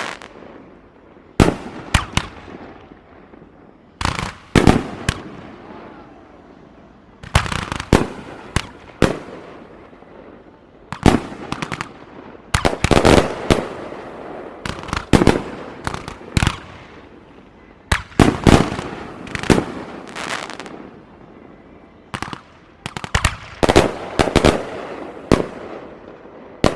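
Fireworks going off in a continuous display: clusters of sharp bangs every second or two, each trailing off in a fading crackle.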